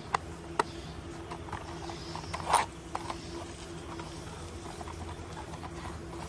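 Scattered light clicks and taps, with one louder rustling knock about two and a half seconds in, over a steady low hum.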